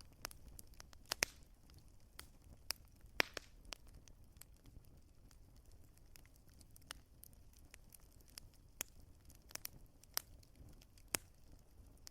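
Wood fire crackling: irregular sharp pops and snaps of burning logs over a soft low rumble, with a few louder pops, the sharpest about three seconds in.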